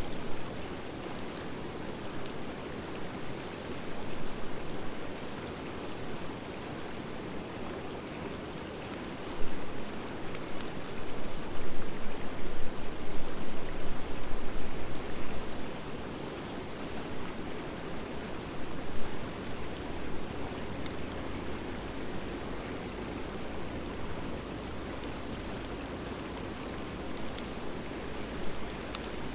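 Driftwood and dry hardwood fire burning: a steady rush with scattered sharp crackles and pops, louder for several seconds in the middle.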